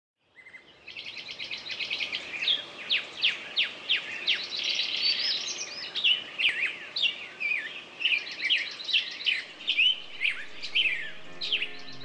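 Songbirds singing: a busy, overlapping stream of quick chirps, trills and downward-sliding whistles. Soft music starts to come in near the end.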